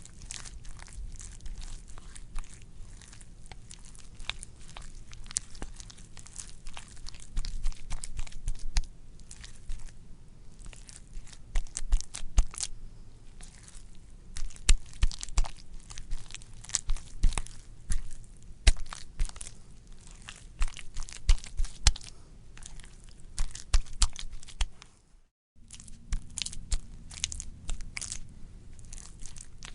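Wet, squishy squelching: a dense, irregular run of sharp wet clicks and crackles over a low rumble. It cuts out briefly about 25 seconds in, then resumes.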